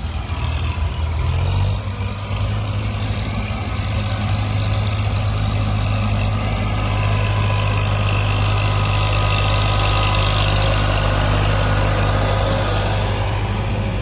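Diesel tractor or backhoe engine running steadily. Its note rises about a second and a half in and then holds.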